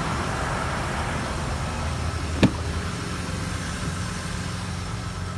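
Ford F-150's 3.0 L Power Stroke V6 turbo diesel idling steadily, with one sharp click about halfway through.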